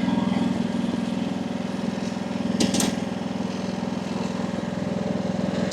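AGT WH12R mini excavator's engine running steadily, with one brief click about two and a half seconds in.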